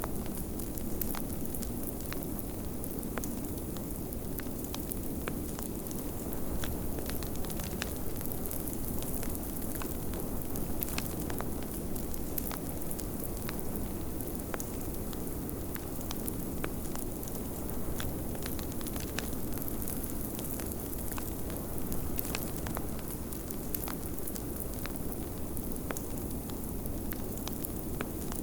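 Wood fire crackling, with frequent irregular sharp pops, over a steady low rush of blizzard wind.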